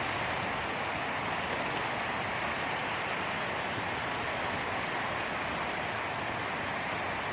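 Ocean surf: a steady rushing wash of breaking waves.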